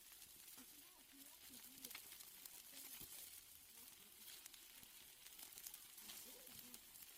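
Faint sizzling of steaks cooking on a grill, a steady hiss with light crackles and pops.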